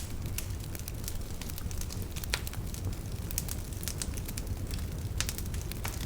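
Wood fire burning in a fireplace: a steady low rumble of flames with scattered sharp crackles and pops of burning logs.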